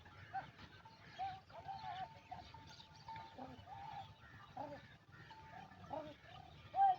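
Sheep and lambs bleating, many short calls scattered and overlapping.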